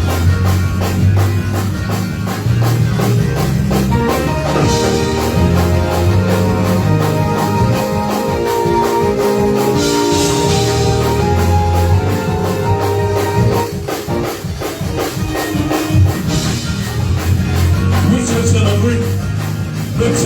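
Gospel praise-break music played live by a church band: fast, driving drums with tambourine and a strong bass line. About four seconds in, held chords come in above them and drop out again a little past halfway.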